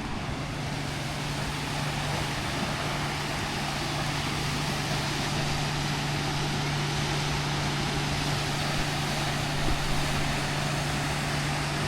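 Steady rushing noise of flowing water from a stream or small waterfall, with a low steady hum underneath.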